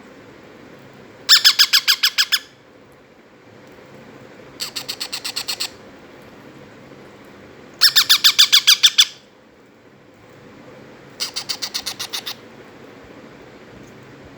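Baby Indian ringneck parrots calling in four bursts of rapid, repeated squawks, each burst about a second long, with short pauses between them.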